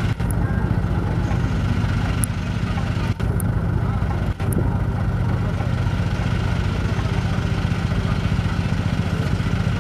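Diesel engine of a fully loaded truck labouring up a steep incline, a steady low rumble with a couple of brief drops near the middle.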